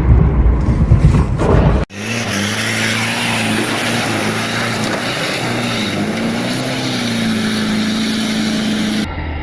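Loud low rumble of a vehicle cuts off about two seconds in, followed by a vehicle engine running steadily, its pitch wavering slightly with small changes in speed.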